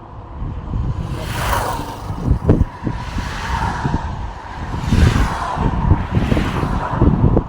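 Road traffic: vehicles passing one after another, each a swell of tyre and engine noise that builds and fades, about three in all, over a steady low rumble.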